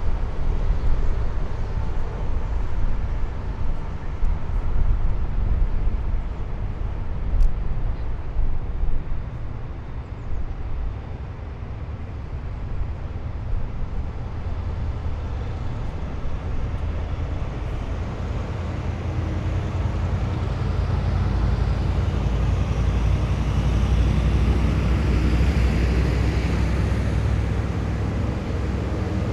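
Heavy military vehicles driving past in a column, a continuous deep engine rumble with tyre noise. The rumble swells in the second half as a vehicle passes closer.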